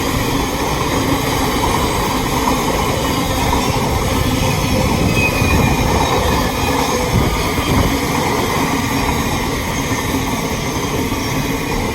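Container freight train's wagons rolling past on the rails, a loud, steady rumble of wheels and wagons.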